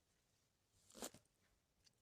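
Near silence, with one faint short click or rustle about halfway through and a tiny tick near the end.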